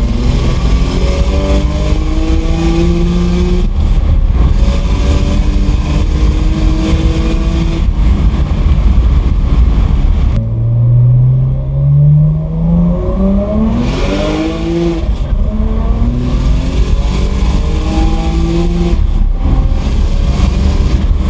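BMW N54 turbocharged inline-six accelerating hard through the gears, its pitch climbing in each gear and dropping back at each shift. The sound breaks off suddenly about ten seconds in, and a second pull climbs steeply and shifts again.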